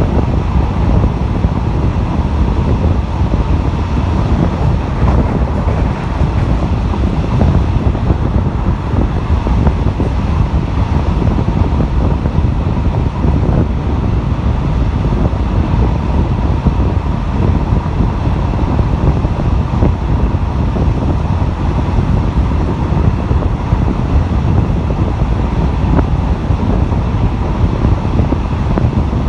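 RHN diesel railcar running downhill, heard from an open window: a steady rumble of the train in motion, with wind buffeting the microphone.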